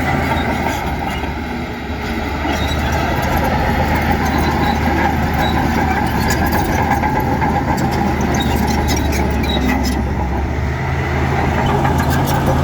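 Heavy diesel earthmoving machinery running steadily, with scattered clicks and knocks, more of them near the end.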